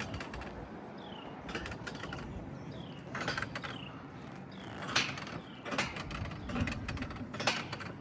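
Mountain coaster's cars and track mechanism clicking and clattering, with sharp clacks about five seconds and seven and a half seconds in.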